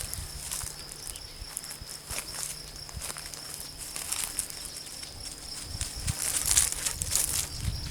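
Outdoor field ambience: an insect's steady high-pitched trill, with scattered rustling and light crackling as of movement through dry vegetation.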